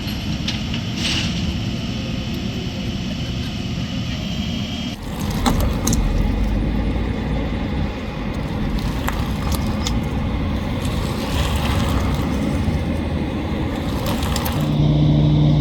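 Steady low rumble of vehicle engines running, with an abrupt change about five seconds in and a steady low hum setting in near the end.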